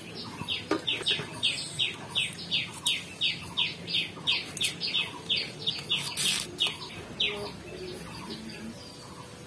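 A bird calling: a long, even run of short, falling chirps, about three a second, that stops about seven seconds in.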